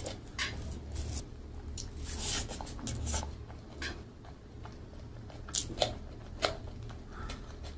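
Close-miked eating sounds: chewing and sharp, wet mouth clicks while eating rice by hand, with soft squishing as the rice is kneaded between the fingers. A few louder clicks come about two-thirds of the way through.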